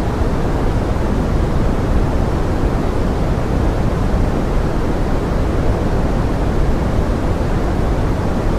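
Steady pink noise of the 'forest rain' kind: an even, deep hiss weighted toward the low and middle range, with no separate drops or other events.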